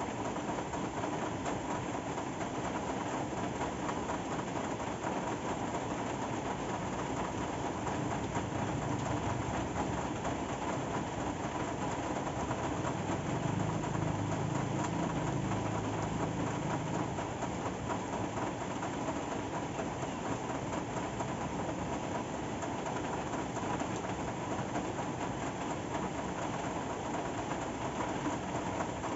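Steady rain falling, a dense even patter of drops. A low rumble swells and fades about halfway through.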